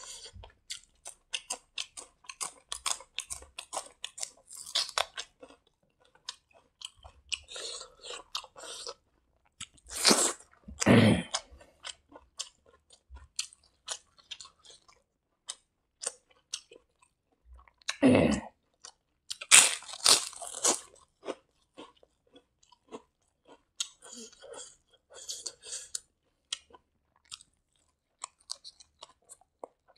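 Close-up eating sounds: a person chewing and crunching a mouthful of fried rice and crisp vegetables, with wet clicking chews throughout and a few louder crunchy bites about a third of the way in and again past the middle.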